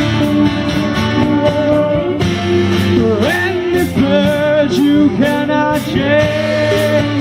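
Rock band music with electric guitar and a steady drum beat, the guitar lines bending and sliding in pitch through the middle, with singing.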